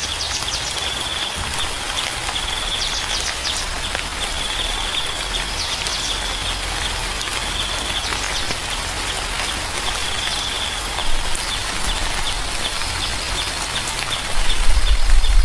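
Steady rain falling, with a short high-pitched chirping call repeating about every two seconds. Near the end a louder low rumble comes in.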